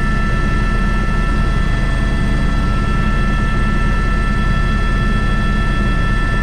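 Airbus H125 (AS350 B3) helicopter in flight, its turbine and rotor running steadily. A constant low rotor drone carries several steady high-pitched whine tones.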